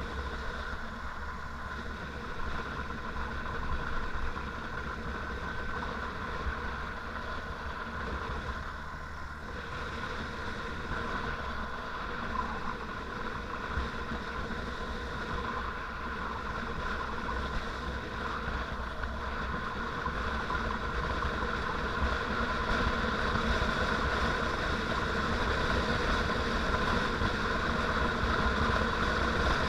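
Motorcycle engine running steadily on the move, growing gradually louder over the last third.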